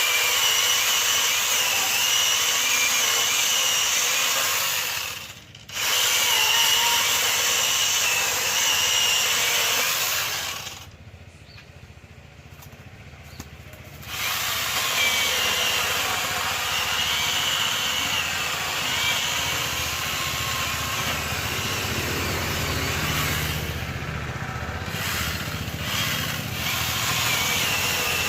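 Angle grinder fitted with a mini chainsaw adaptor cutting wood: a high motor whine over the rasp of the chain. It drops out briefly about five seconds in, goes quiet for about three seconds near the middle, then runs on.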